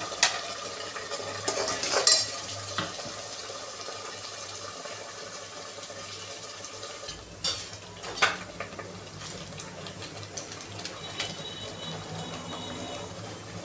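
Ground masala paste frying in oil in a metal pot with a steady sizzle. A slotted metal spatula stirs it, clicking and scraping against the pot a few times.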